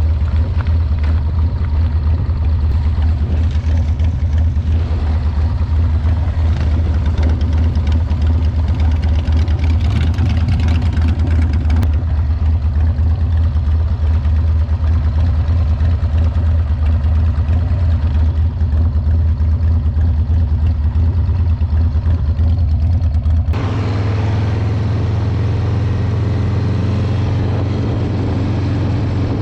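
Motorcycle engine running steadily while riding, with a deep, low pitch. About 24 seconds in, the sound switches abruptly to a different, steadier engine note.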